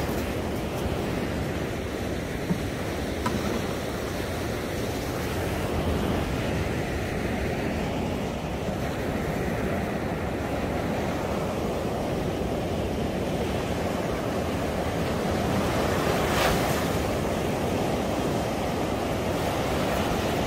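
Surf washing onto a sandy beach in a steady rush, with wind buffeting the microphone.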